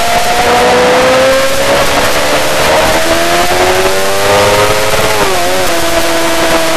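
Yamaha R6 inline-four engine accelerating hard through the gears. Its pitch climbs and drops at upshifts about half a second and three seconds in, then falters briefly around five seconds and holds steady, under heavy wind rush.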